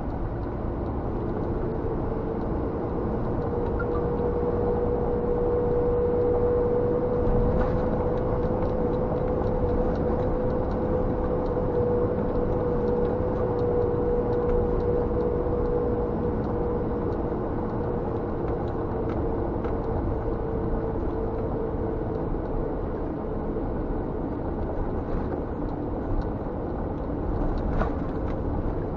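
Scania G460 truck's diesel engine running steadily under way, heard from inside the cab: a constant low rumble with road noise and a steady droning tone that is strongest for the first half and then fades.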